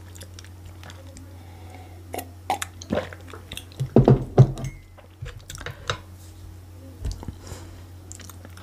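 A person chewing food close to the microphone: irregular wet chewing and biting sounds with a few crunches, loudest about four seconds in.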